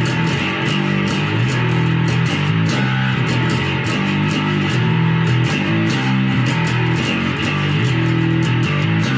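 Epiphone Grabber electric bass on its Music Man-style humbucker, played with a pick through distortion: a picked riff with a fat, overdriven tone.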